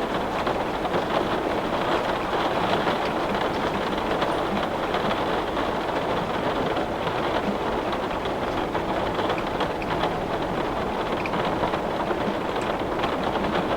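Heavy rain beating on a window pane, a steady dense hiss with scattered small drop ticks.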